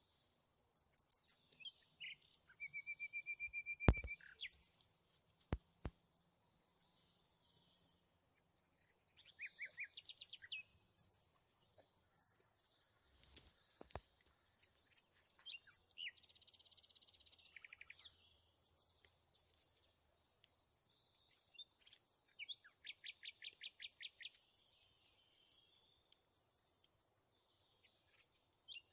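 Small songbirds calling: scattered short high chirps, a held whistle a few seconds in and a rapid trill near the end, with a few sharp clicks.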